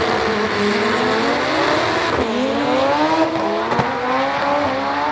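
Car engine held at high revs, its pitch dipping about two seconds in and then climbing slowly, over a steady hiss of noise.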